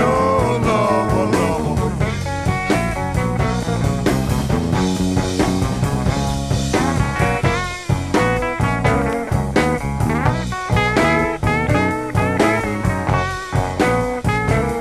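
Electric blues band playing at full tilt: guitars, bass and drums, with a lead line bending its notes up and down over the beat.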